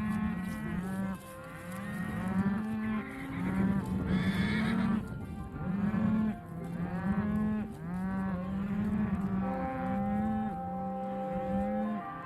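A herd of cattle mooing, many calls overlapping one after another. Steady music tones come in near the end.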